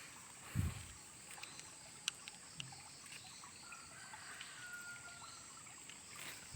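Faint riverside ambience at night: water trickling steadily, with one dull low thump about half a second in and a few light clicks.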